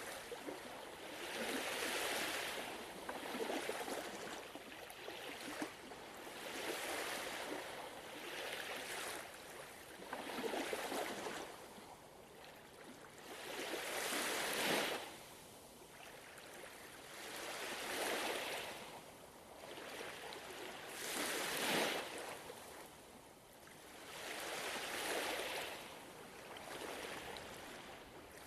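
Gentle ocean waves washing in and drawing back, each swell of surf rising and fading about every three to four seconds.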